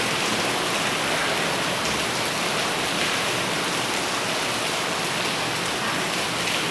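Heavy rain falling steadily and pattering on surfaces, a constant even hiss.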